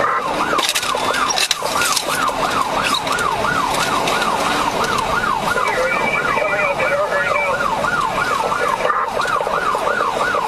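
Police car siren in a fast yelp, rising and falling about three times a second without a break, over road and engine noise.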